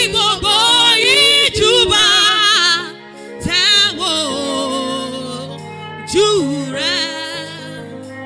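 A woman singing a slow worship song in long phrases with heavy vibrato, over sustained accompaniment chords. The voice comes in three phrases with short breaks between them.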